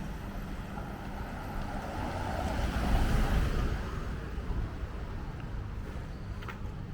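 A vehicle passing on the street, its noise swelling to a peak about three seconds in and then fading, over steady traffic background.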